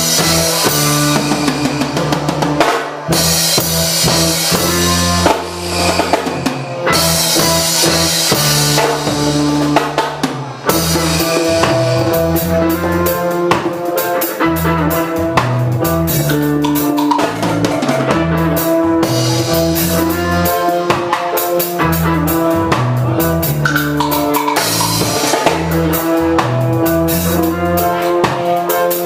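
A reggae band playing an instrumental passage, with the drum kit keeping a steady beat over a moving bass line.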